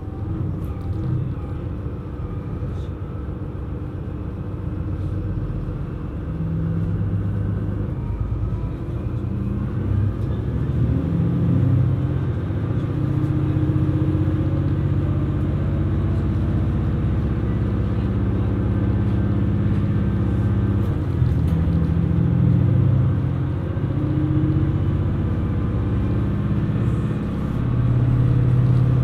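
KiHa 127 series diesel railcar running: a steady engine drone over low rolling rumble, rising in pitch and loudness between about six and twelve seconds in as the engine works harder, then holding steady.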